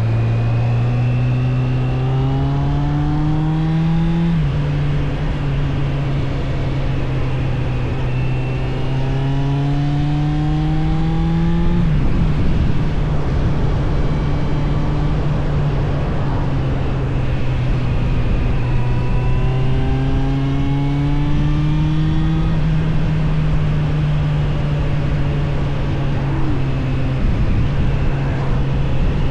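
Suzuki GSF 600 Bandit's air/oil-cooled inline-four engine pulling through the gears while riding. Its pitch climbs and then drops sharply at two gear changes in the first twelve seconds, then holds at a steady cruise before easing off slightly near the end.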